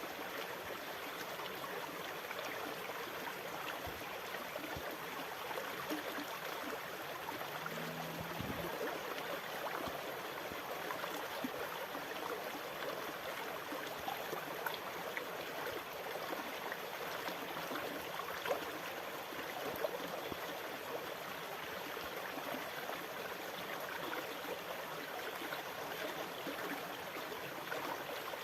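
Sea water rushing steadily, with small crackles and fizzes of water scattered through it.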